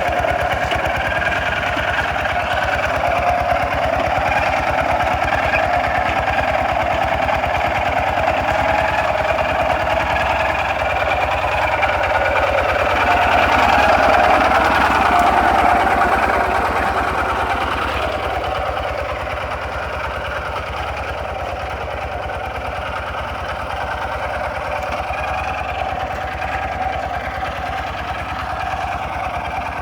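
Kubota RT 140 DI walking tractor's single-cylinder diesel engine running steadily under load while plowing sandy ground, with a fast, even chugging. It grows louder about halfway through, then eases off again.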